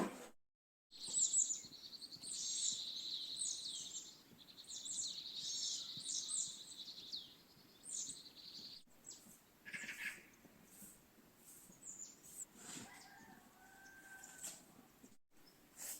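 Small birds chirping: a dense run of quick, high chirps for several seconds, thinning to scattered calls later on.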